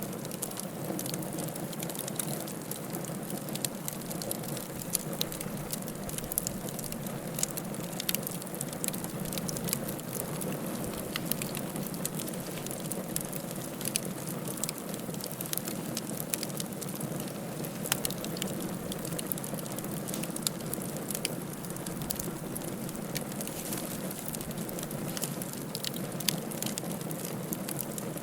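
Wood fire crackling in a fireplace: a steady low rush of the flames with frequent small, sharp pops and snaps scattered throughout.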